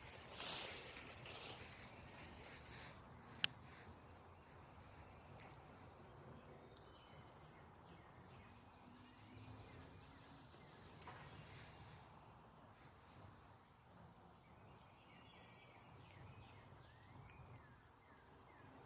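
An insect, cricket-like, trilling in one steady, high-pitched, continuous note that comes in after about two seconds. There is faint rustling at the start.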